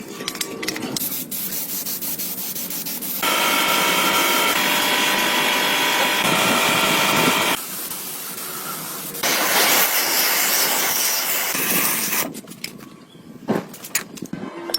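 Steady hissing noise in several abruptly cut stretches; the loudest, in the middle, carries a faint steady whine.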